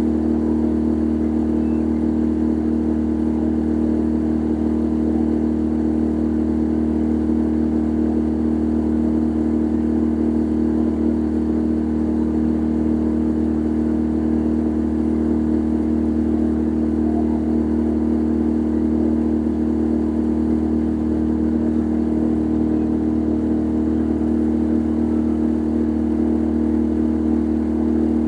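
Boat engine running at a steady speed: an even drone with no change in pitch or level.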